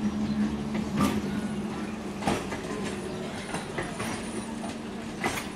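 Electric multiple unit local train running past close by: a steady low hum under the rumble of the carriages, with irregular sharp wheel clacks over the rail joints, the loudest about one, two and five seconds in.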